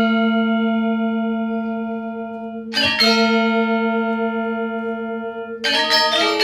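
Struck metal bell tones ringing and slowly fading, struck again about three seconds in, then several quick strikes near the end.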